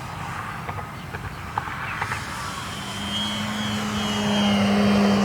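Electric RC Waco biplane's motor and propeller passing, a steady hum with a faint higher whine that comes in about three seconds in and grows louder as the plane nears.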